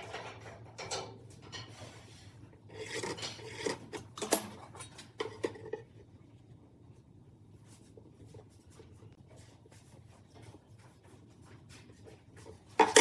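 Irregular strokes of a hand tool scraping on wood for about the first six seconds, then quieter, with one sharp knock near the end.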